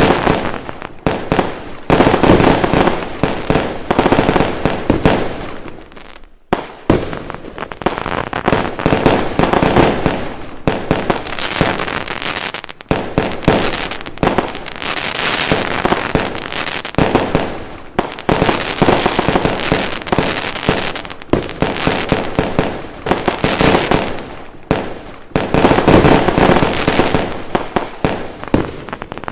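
A fireworks display: dense, continuous barrages of bangs and crackling firecrackers, with a brief lull about six seconds in before the bangs resume.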